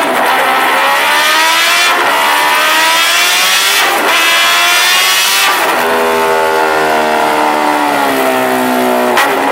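Kawasaki Ninja H2R's supercharged inline-four engine and exhaust accelerating hard through the gears. The pitch climbs and then drops at each upshift, roughly every two seconds, followed by a longer stretch where the pitch slowly falls before another shift near the end.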